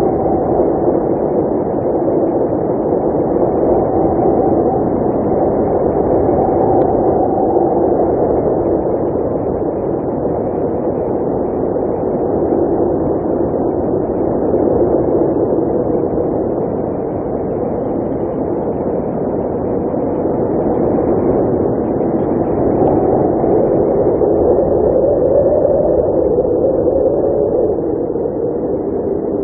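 Blizzard wind blowing hard and steadily, with a moaning tone that drifts in pitch and slow swells that rise and ease.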